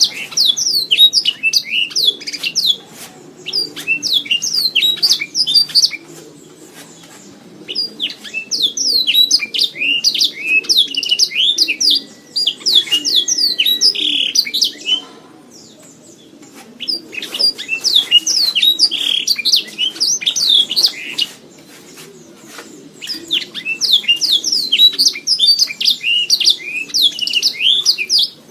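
Domestic canary singing: long songs of rapid chirps and trills, in four phrases of several seconds each with short pauses between them, over a faint low background hum.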